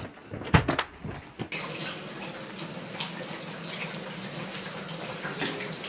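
A few knocks, then water running steadily with a crackling splash from about a second and a half in.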